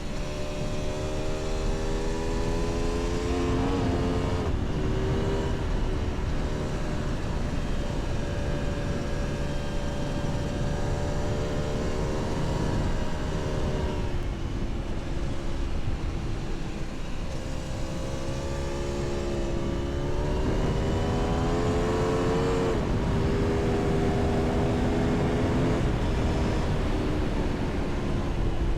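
Aprilia Tuono V4 motorcycle's V4 engine running at speed, its pitch rising and falling several times with the throttle, over a steady rush of wind noise.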